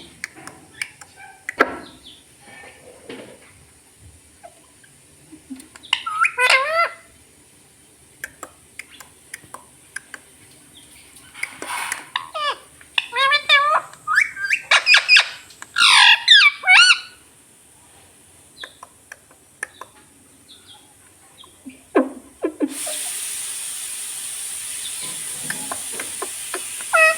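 Pet ring-necked parrot calling in several bouts of squawky calls that swoop up and down in pitch, the loudest around the middle, with scattered small clicks between them. A steady hiss starts for the last few seconds.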